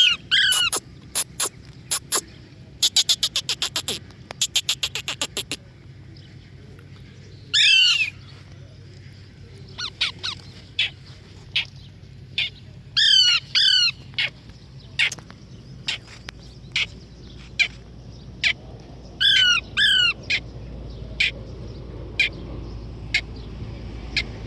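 Pet parrot making quick runs of short sharp clicks, with a few short pitched squawking calls, some in pairs.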